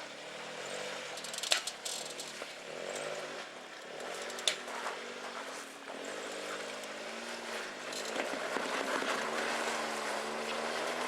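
Suzuki Jimny JB23's three-cylinder turbo engine revving up and down as it crawls over rocks, getting a little louder near the end. Two sharp knocks cut in, about one and a half and four and a half seconds in.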